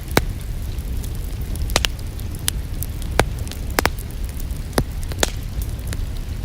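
Wood fire crackling in a fireplace: sharp irregular pops every half second to a second, some in quick pairs, over a steady low rumble.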